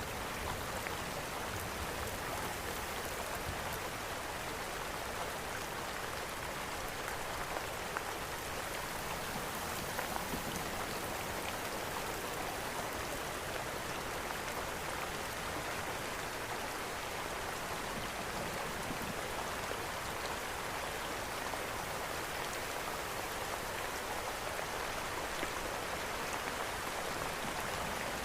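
Steady heavy rain hissing, with scattered small ticks and one slightly louder tick about eight seconds in.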